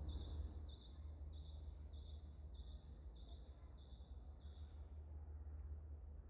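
A bird singing a fast series of high, falling notes, about three a second, that stops about four and a half seconds in. Under it runs a low, steady rumble.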